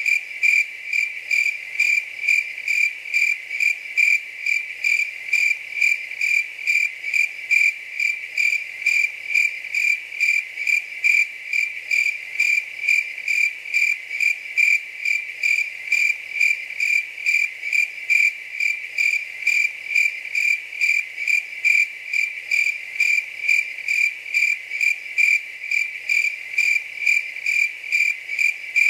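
A cricket chirping steadily on one high pitch, about two to three even chirps a second.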